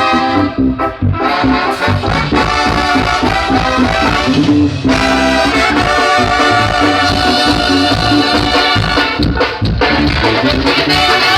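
A live Latin dance band playing an instrumental break without vocals: held brass lines, trombones among them, over drums, bass and percussion keeping a steady beat.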